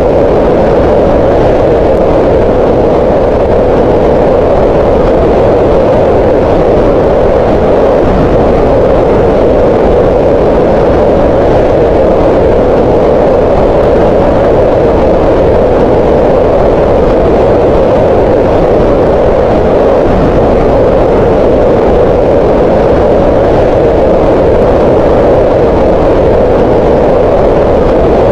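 Green noise: a steady, even hiss with no lines or events, its energy centred around 500 Hz in the middle of the hearing range, unchanging throughout.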